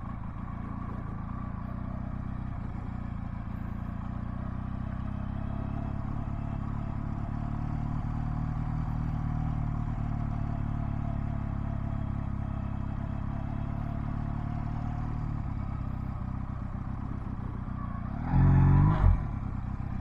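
Honda Rebel 250's small parallel-twin engine running at low, fairly steady revs as the bike is ridden in slow circles. Its note rises a little and eases off midway, and a brief louder burst of noise comes near the end.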